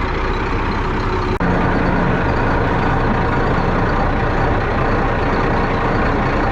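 A vehicle engine running steadily, with a brief break about one and a half seconds in.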